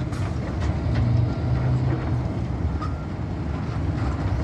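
Tri-axle Peterbilt dump truck's diesel engine running steadily, a low drone while the bed is raised to dump rock.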